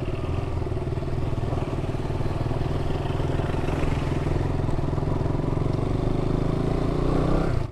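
Single-cylinder engine of a KTM Duke 200 motorcycle running steadily under way at a constant pace.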